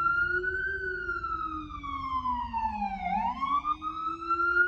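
Siren wailing, rising and falling slowly in pitch: it peaks about a second in, sinks to its lowest about three seconds in, then climbs again.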